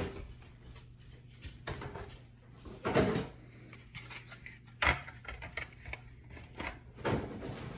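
A few scattered knocks and clatters of thin plastic armour kit parts being handled and set down, over a steady faint hum.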